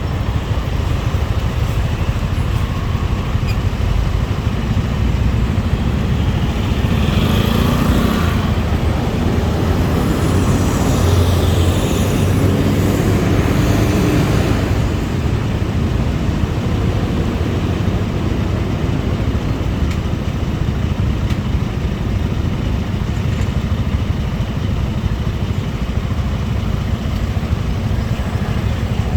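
Motorbike riding in city traffic: steady engine and road noise, swelling for several seconds around the middle of the stretch.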